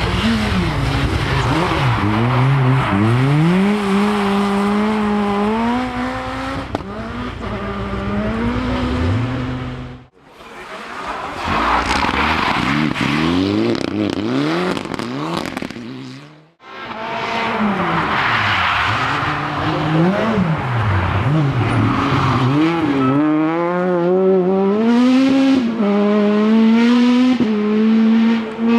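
Rally car engines driven hard on a special stage. The engine note climbs and drops with the gear changes and tyre noise sits under it. The sound breaks off abruptly twice, so three separate passes are heard.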